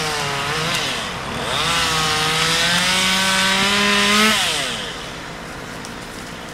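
Chainsaw revving and cutting up in the tree; its engine pitch sags and climbs under load, then drops back to a lower, quieter idle about four and a half seconds in.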